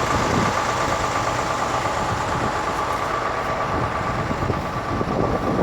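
An engine idling steadily, with a held, even tone over a low rumble.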